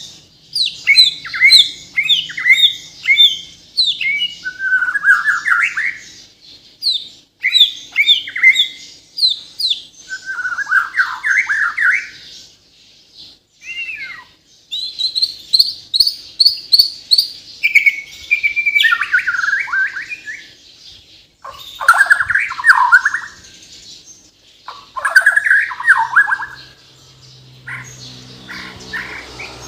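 White-rumped shama (Bornean murai batu) singing hard: loud, rapid phrases of varied whistles, trills and chattering notes, each run a second or two long, separated by short pauses.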